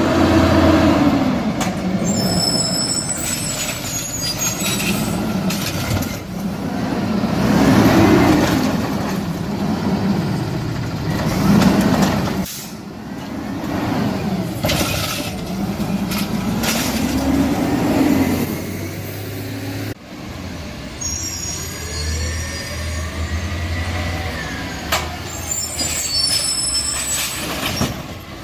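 Garbage truck at work: its diesel engine rising and falling in pitch every few seconds as it revs to drive the hydraulics, with short high squeaks and hisses in between.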